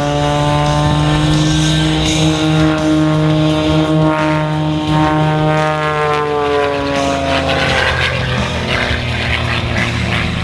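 Propeller airplane flying past at an air show: a loud, steady engine-and-propeller drone whose pitch falls between about six and eight seconds in as it passes, then fades into a rushing noise.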